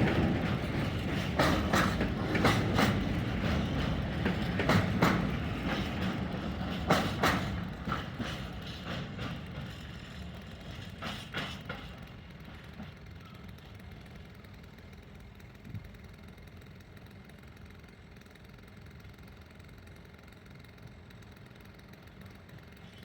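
Intermodal freight train wagons rolling past, wheels clattering in irregular knocks over the rail joints, fading away as the train recedes. The clatter stops about twelve seconds in, leaving a faint steady rumble.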